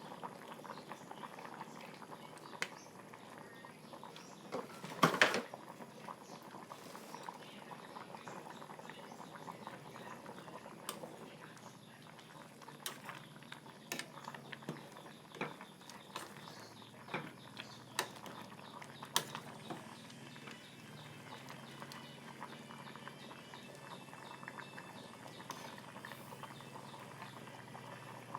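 Pot of pumpkin and pork curry boiling, with a steady bubbling and many small pops; one sharp knock about five seconds in.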